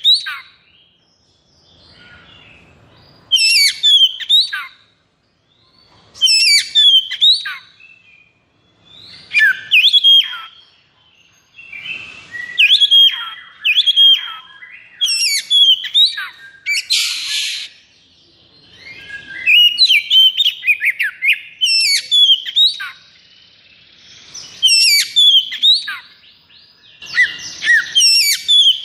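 Oriental magpie-robin (kacer) singing its aggressive, high-arousal 'konslet' song: loud bursts of rapid, sharply sweeping whistled notes every few seconds. About 17 s in there is a harsh buzzing rattle.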